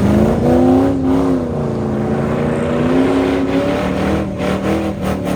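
Car engine revving, its pitch rising and falling smoothly, with a few sharp clicks near the end.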